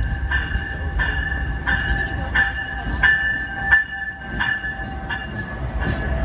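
Amtrak Downeaster train rumbling as it moves slowly into the station, with a bell ringing about three strokes every two seconds.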